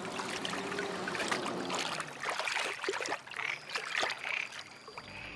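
Shallow ditch water trickling, with small irregular splashes.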